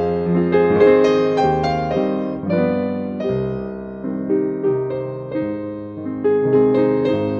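Piano music: a gentle melody of struck notes, each fading away after it sounds.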